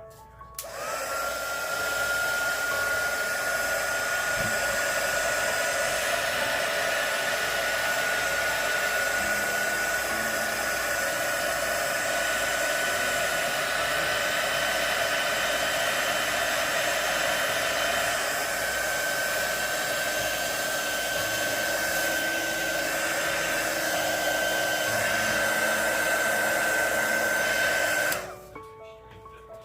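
A hand-held hot-air blower running steadily, a fan rush with a high whine that creeps slightly up in pitch; it switches on about a second in and cuts off near the end.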